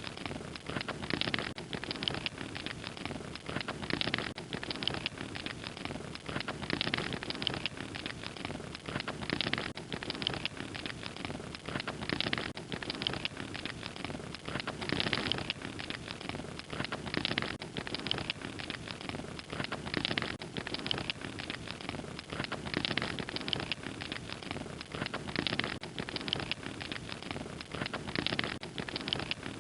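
Fire crackling: a continuous stream of small pops and snaps over a steady hiss.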